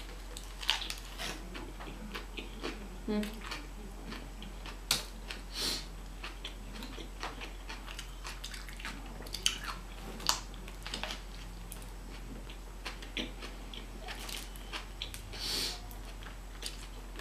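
A bite into a soft sandwich, then chewing with scattered wet mouth clicks and smacks. A faint steady electrical hum runs underneath.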